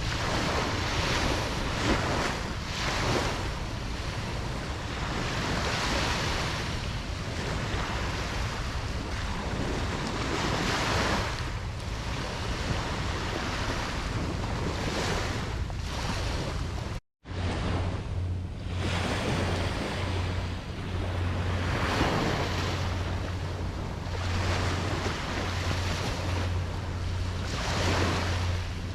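Ocean waves washing onto a beach, the surf swelling and easing every few seconds, with wind on the microphone. The sound cuts out for a split second about halfway through, after which a steady low rumble joins the surf.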